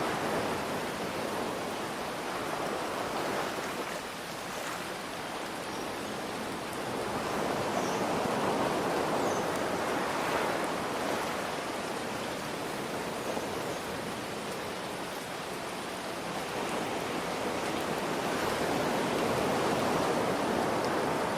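Ocean surf washing in and drawing back in slow swells, one rising about 8 seconds in and another near the end, under a steady hiss of falling rain.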